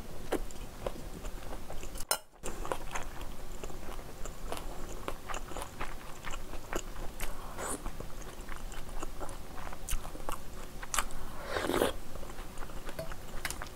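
Close-miked chewing of a mouthful of kimchi fried rice, with many small wet mouth clicks, and one louder, longer sound shortly before the end.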